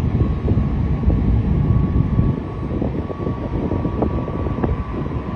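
Jet engines of an Emirates Airbus A380-800 running: a steady low rumble with a thin, even whine over it.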